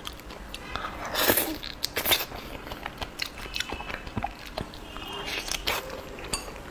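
Close-up biting and chewing of a fresh fig: soft wet bites and mouth clicks, loudest about a second in.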